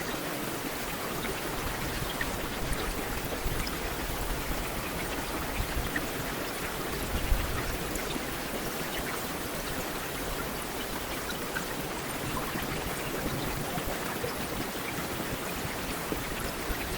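Heavy rain falling steadily, an even hiss dotted with the ticks of single drops, with one louder tap about seven seconds in.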